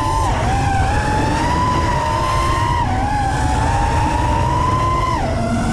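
5-inch FPV quadcopter's brushless motors and propellers whining. The pitch dips sharply three times, as the throttle is cut and brought back, over a low rumbling noise.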